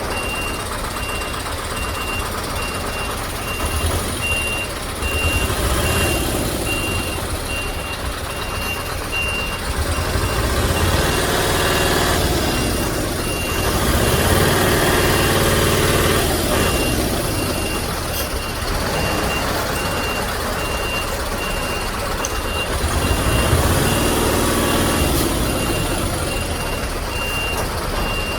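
Heavy vehicle's reversing alarm beeping steadily, about once a second, over the low running of a diesel engine that grows louder for a few seconds around the middle and again near the end.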